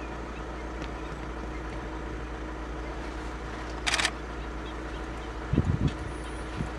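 Vehicle engine idling steadily. A short sharp noise about four seconds in, then a few loud low thumps near the end.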